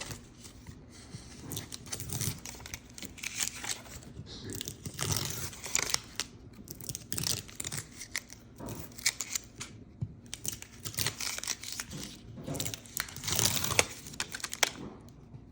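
Irregular tearing and crinkling as something is peeled off a wall by hand, coming away easily, in uneven spells with the loudest stretches in the middle and near the end.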